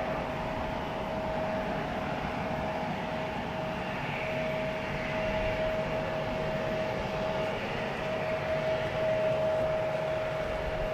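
Jet airliner engines running at a distance, a steady whine of constant pitch over a broad rushing noise.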